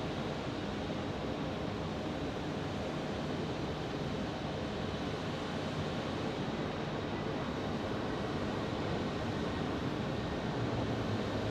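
Steady rushing noise of distant jet aircraft engines at an airport, with a faint low hum rising near the end.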